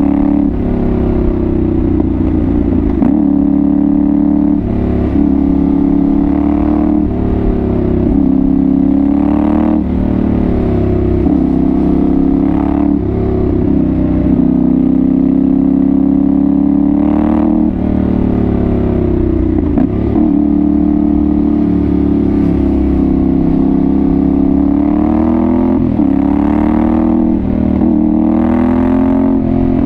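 Yamaha Ténéré 700's 689 cc CP2 parallel-twin engine through a Dominator GP1 aftermarket exhaust, under way and revving up and dropping back over and over as the throttle opens and closes.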